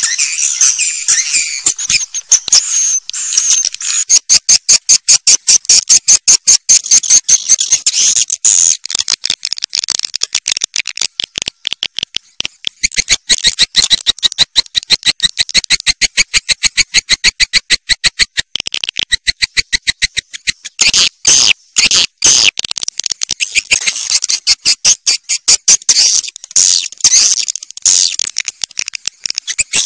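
Swiftlet calls: loud, rapid runs of sharp, high clicking chirps, many to a second, broken by a few short pauses. This is the kind of swiftlet call recording that is played to lure swiftlets into nesting houses.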